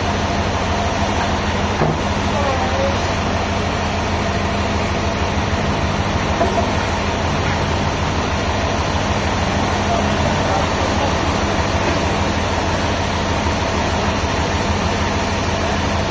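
An engine running steadily at idle, with an even low pulsing throb.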